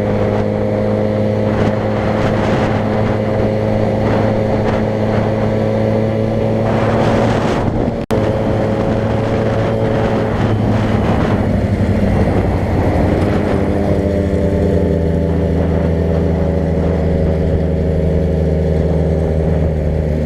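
Car engine running steadily while driving, with road and tyre noise; its pitch shifts a little about two-thirds of the way through. A brief dropout about eight seconds in.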